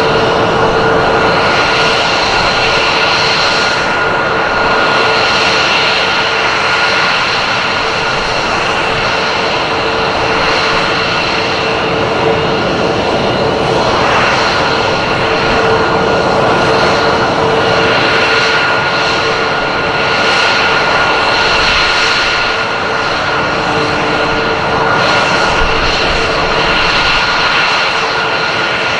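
Aircraft engine noise, loud and steady for the whole stretch with a held whining tone over it and slow swells in loudness.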